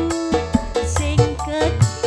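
Live keroncong music with a steady beat of strikes and bass notes under a sustained melody line.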